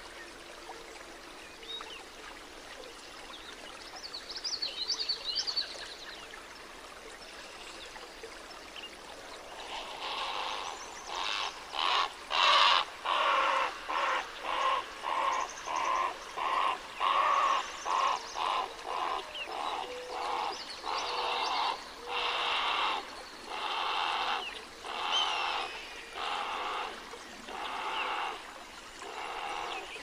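Birds calling: a brief high twittering, then from about ten seconds in a long run of repeated harsh calls, one or two a second.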